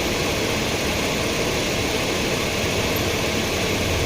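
Chrysler Sebring's 2.7-litre V6 idling steadily with the A/C system running, an even hiss over a low rumble.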